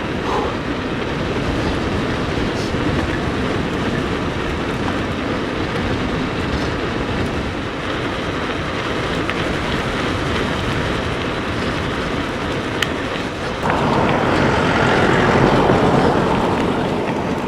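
Riding noise of an electric mountain bike: steady tyre rumble and frame rattle over the track with wind on the microphone, swelling louder for a few seconds near the end.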